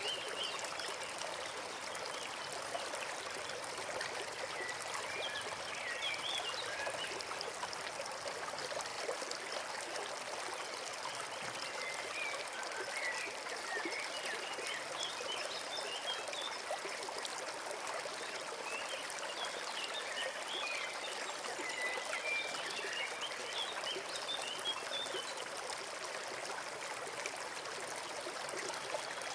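A forest brook running steadily over stones, with small birds chirping in short spells every several seconds.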